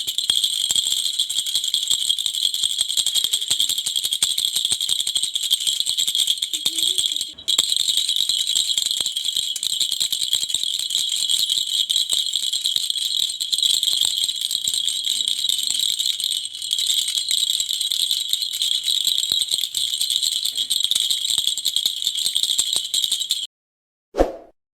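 Rapid, continuous metallic rattling from a vehicle, with a brief break about seven seconds in. It cuts off abruptly near the end, and one short sound follows.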